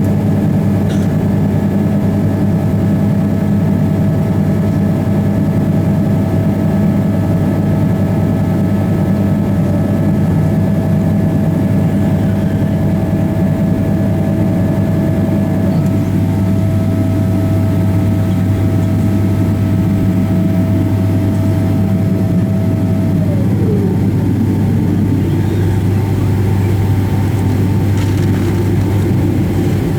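Boeing 777-300ER's GE90 jet engines at low taxi power, heard inside the passenger cabin as a steady low drone with a thin whine over it. The whine drops in pitch and fades about three-quarters of the way through.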